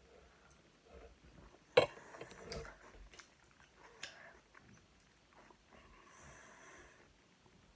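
A person quietly eating tomato salad: soft chewing and small clicks, with one sharp click or knock about two seconds in.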